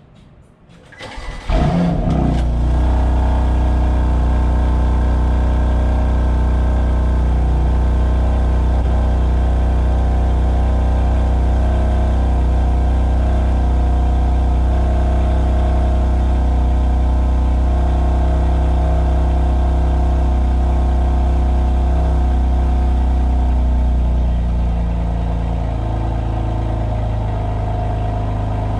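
2020 BMW M2 Competition's 3.0-litre twin-turbo straight-six cold-starting: a short crank, then it catches with a rev flare about a second and a half in and settles into a loud, steady fast idle through the exhaust. About 24 seconds in, the idle steps down and quietens slightly.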